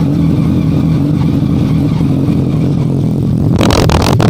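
Motorcycle engine running steadily at idle, joined about three and a half seconds in by a loud, noisy burst.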